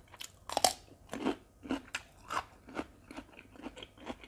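A crisp bite into a fresh cucumber about half a second in, then close-up crunchy chewing, about two chews a second.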